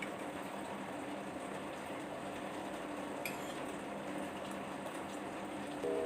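Steady hiss of rain. Background music comes in right at the end.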